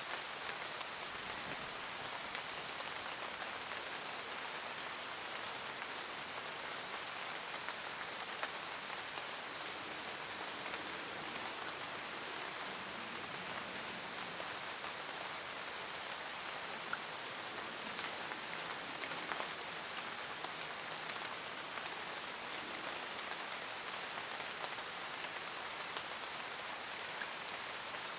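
Steady rain falling in a forest, a constant hiss of rain pattering on leaves with scattered individual drops ticking through it.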